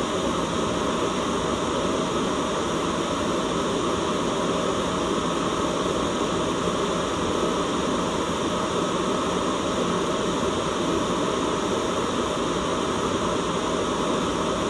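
Steady, unchanging white noise, a smooth hiss weighted toward the low and middle range rather than bright.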